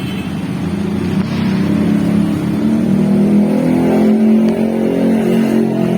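Holden Kingswood's engine running, getting louder about a second in and then revving lightly up and down.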